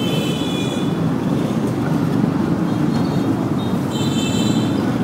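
Motorbike riding in city traffic: a steady rumble of engine and road noise with wind on the microphone. A high-pitched tone sounds twice, once near the start and again about four seconds in.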